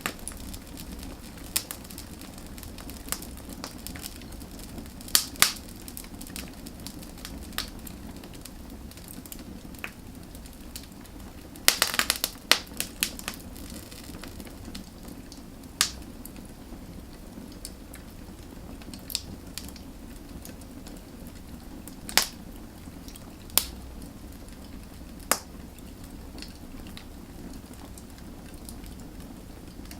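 Wood fire burning with a steady low rumble and irregular sharp crackles and pops, a quick run of pops about twelve seconds in.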